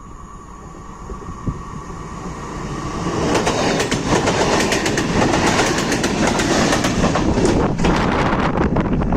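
PESA 730ML diesel multiple unit passing close by, growing louder over the first three seconds. Its wheels then clatter over the rail joints in a dense run of clicks.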